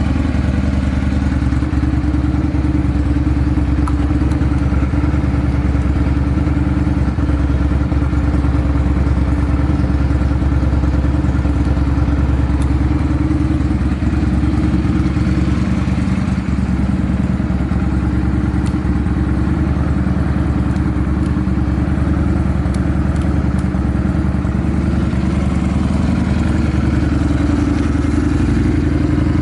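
Honda Steed 400's V-twin engine idling steadily through an aftermarket SuperTrapp megaphone exhaust, running evenly with no abnormal noise.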